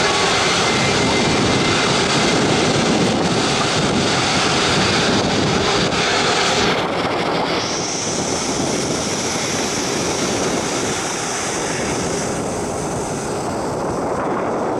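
Jet engines of airliners taxiing, a loud steady rushing noise. About seven seconds in it eases slightly and a steady high-pitched engine whine sets in.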